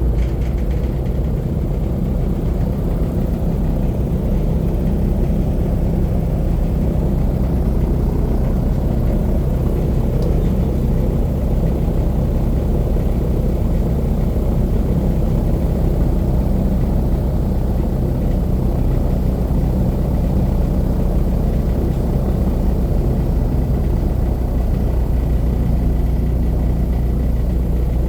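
Airboat's engine and propeller running steadily under way, a constant low drone with no change in speed.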